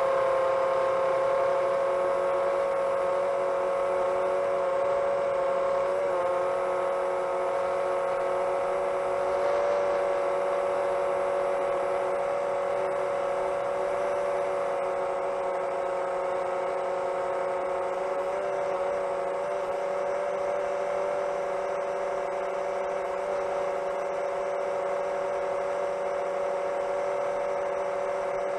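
Motors and propellers of a 7-inch long-range FPV quadcopter in cruise, a steady whirring hum with small wavers in pitch about six seconds in and again a little past the middle.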